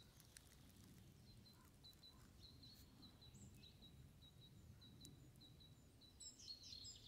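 Near silence with faint bird calls: a run of short, high chirps repeated about three times a second, with a brief flurry of chirps near the end, over a faint low rumble.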